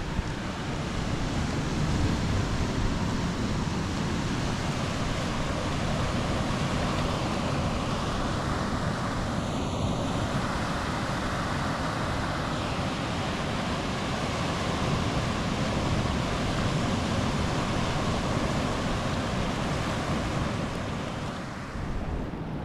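Ocean surf breaking on the beach in a steady, even wash, with wind rumbling on the microphone.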